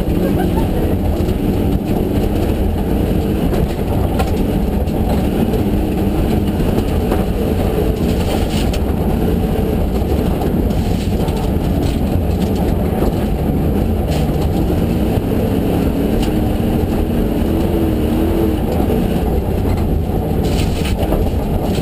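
In-cabin sound of a Ford Mustang GTS rally car driving at speed: a loud engine under load, its pitch rising and falling with the revs, over steady road and tyre noise.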